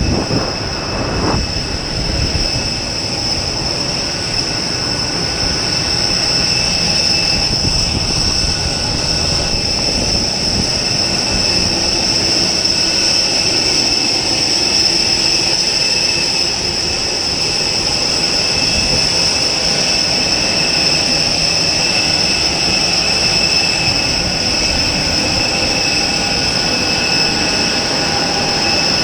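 Airliner turbine running steadily on the ramp: a constant high-pitched whine over a low rumble.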